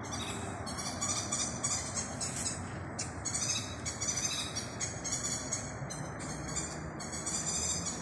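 Birds chirping: a busy chorus of rapid, high twittering notes, over a steady low rush of outdoor background noise.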